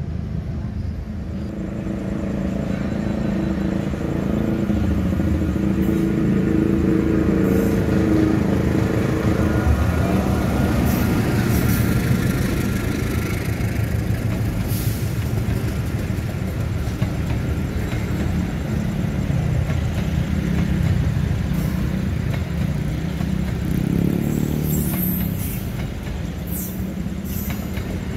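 Trains passing close by: a steady heavy rumble of steel wheels on rail that swells in the middle. Near the end, freight wagons roll past with sharp clicks as the wheels cross rail joints.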